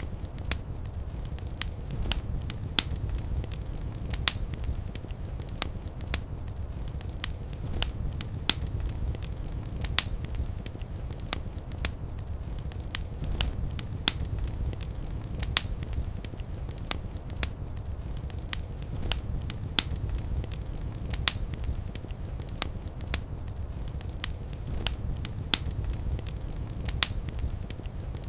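Wood fire burning in a fireplace: a steady low rumble of flames with sharp, irregular crackles and pops, a few a second.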